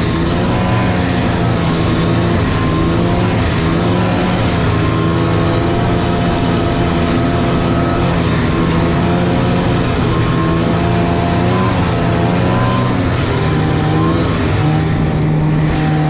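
Snowmobile engine running continuously under way, its pitch wavering up and down with the throttle and dropping a little near the end.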